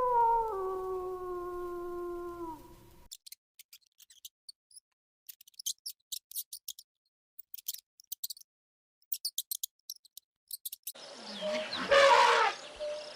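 A drawn-out animal howl, one pitched voice, stepping down in pitch and dying away about three seconds in. Then comes a stretch of sparse, sharp, high clicks, and near the end a loud, harsh animal call.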